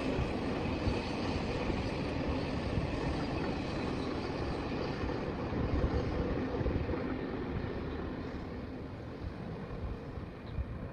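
A train running past with a steady rumble and faint steady tones, growing quieter over the last few seconds as it moves away.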